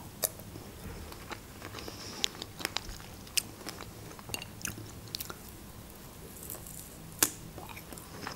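A person chewing food close to the microphone: scattered small mouth clicks and smacks, a few a second, with one sharper click about seven seconds in.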